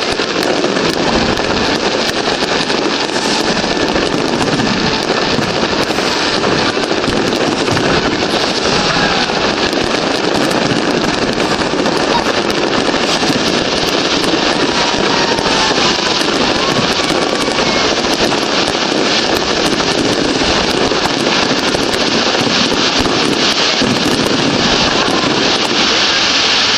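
Fireworks display going off in a continuous dense barrage of bangs and crackling.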